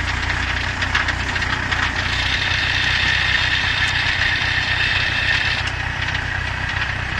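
Engine of a 3-ton crawler dump carrier running steadily with a low, even hum and a knocking clatter, with faint scattered clicks.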